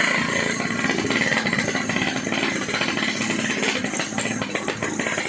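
Yamaha RX-King's two-stroke single-cylinder engine running through a gutted bobokan exhaust, a fast, rattly stream of exhaust pulses.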